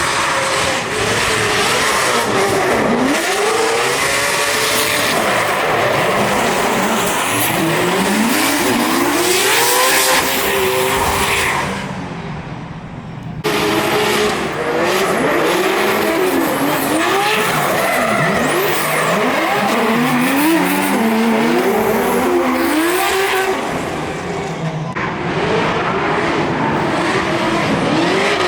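Drift cars on track: high-revving race engines rising and falling in pitch as the throttle is worked, over sustained tyre squeal. The sound drops away briefly about twelve seconds in, then comes back abruptly.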